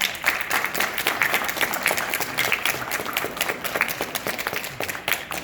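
An audience of students applauding: dense clapping from many hands that starts just before and tapers off near the end.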